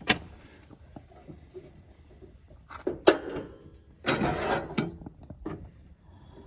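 A small backpacking kettle and camp cooking gear being handled: a click at the start, a sharp knock about three seconds in, and a short rustle a second later.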